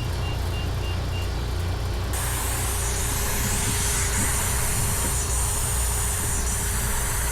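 Engine running with a steady low rumble; a steady high hiss starts abruptly about two seconds in.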